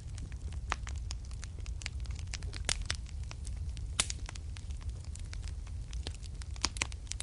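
Wood fire burning in a fireplace, with frequent irregular crackles and pops over a low steady rumble; the sharpest pops come about three seconds in, at four seconds and near the end.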